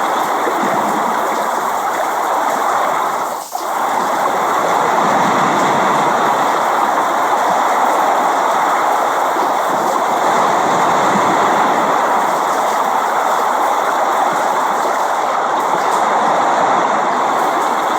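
Steady rain falling, an even hiss, with a brief dip in level about three and a half seconds in.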